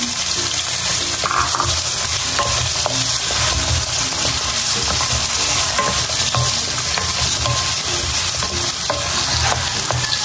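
Cubed potatoes sizzling steadily in hot oil in a metal pan, stirred with a wooden spatula that scrapes and taps against the pan.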